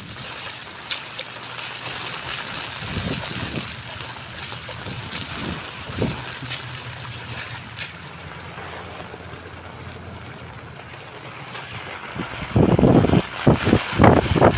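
Steady rain hiss with scattered drop ticks over a faint low hum. About twelve seconds in, loud gusts of wind start buffeting the microphone.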